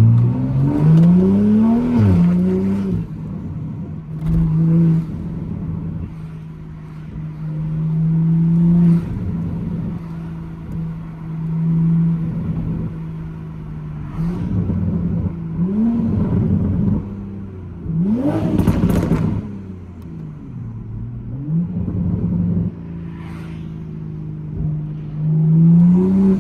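Toyota GR Supra (MK5) engine and loud exhaust on the move. The engine revs up and drops back about four times, with steady cruising drone in between. Sharp exhaust pops come a few times, the strongest about two-thirds of the way in.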